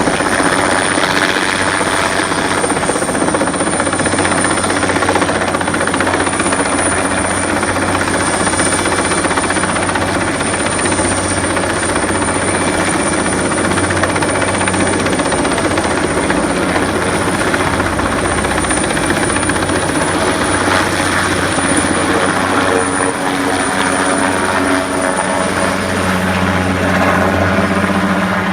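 Helicopter running steadily close by, its rotor and engine making a loud continuous din with a thin steady high whine on top.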